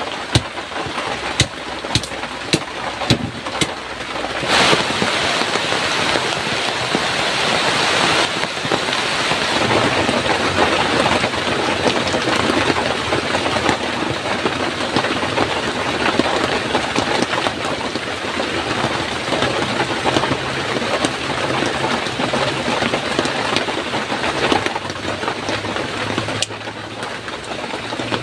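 Heavy rain pouring down. A run of sharp drips or taps fills the first few seconds, then a steady, dense downpour noise takes over about four seconds in.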